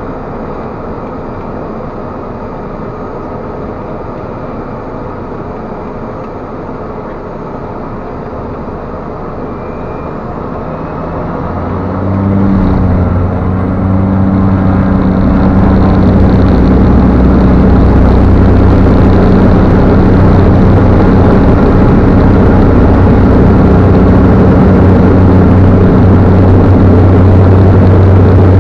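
Cessna Caravan's PT6A turboprop engine running, with the power coming up about twelve seconds in. It settles into a loud, steady hum with a strong low tone, and a faint high whine climbs as it spools up.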